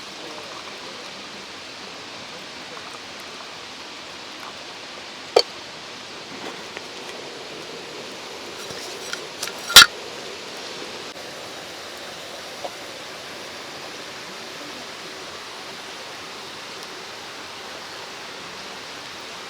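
Steady rushing of a mountain stream, with a sharp click about five seconds in and a louder sharp crack about ten seconds in.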